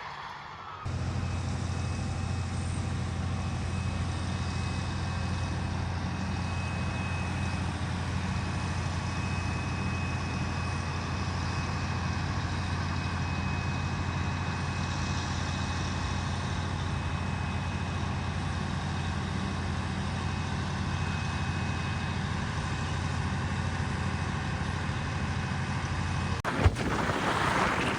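A large vehicle's engine idling steadily, a low even drone, with a sharp knock and a burst of noise near the end.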